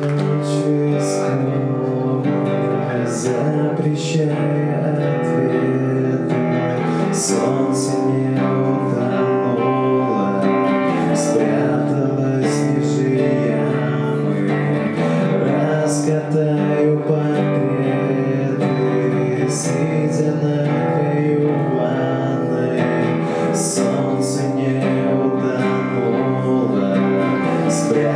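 Acoustic guitar strummed steadily through changing chords in a live song performance.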